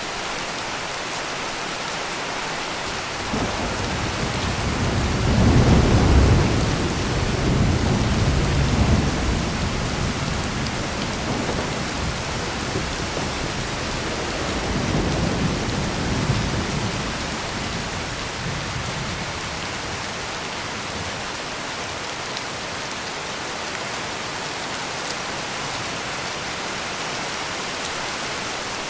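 Steady heavy rain with a deep rolling thunder rumble that builds a few seconds in, peaks, eases, swells again about halfway through and then fades, leaving the rain alone.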